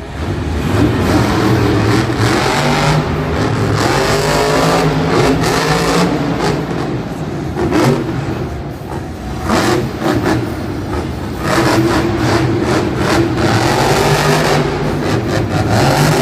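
Monster truck's supercharged V8 running loud and revving hard again and again, the pitch rising and falling, with a couple of sharp bangs about eight and ten seconds in.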